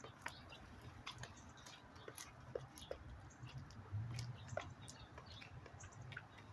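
Backyard birds feeding, pecking and cracking seed: scattered quick clicks and taps, with a brief low hum about four seconds in.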